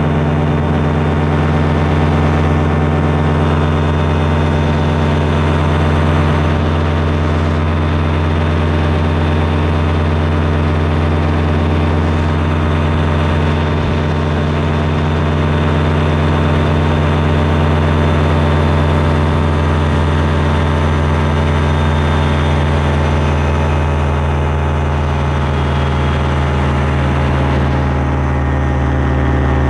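Small aircraft's engine and propeller running with a steady, unchanging drone.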